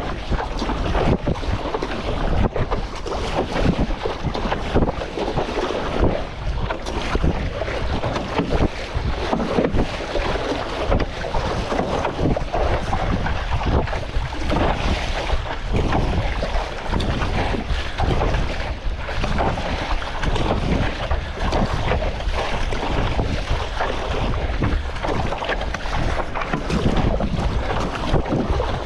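Strong wind buffeting the microphone over choppy seawater splashing and slapping around a stand-up paddleboard, in constant irregular surges.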